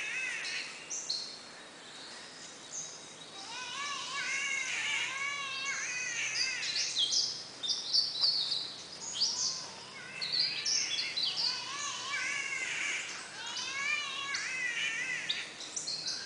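Forest birds singing: repeated phrases of quick, arching warbled notes that come in several bouts, with higher chirps and squeaky calls in between.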